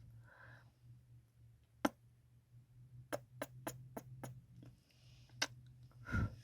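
Kissing sounds: sharp lip smacks, one about two seconds in, then a quick run of about six, then one more, with a soft breath between them. A low steady hum runs underneath.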